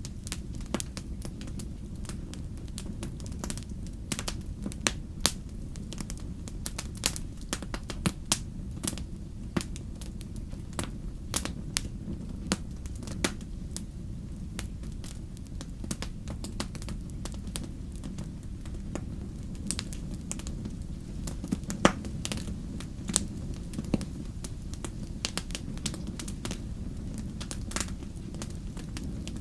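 Wood fire burning in a fireplace: a steady low rumble with irregular sharp crackles and pops, several a second, the loudest pop about 22 seconds in.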